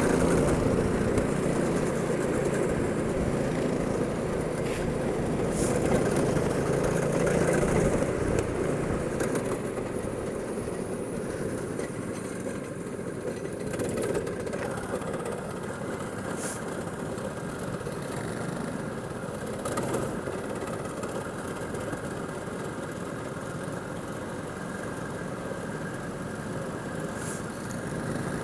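Go-kart engine running, louder for the first eight seconds or so, then steadier and quieter.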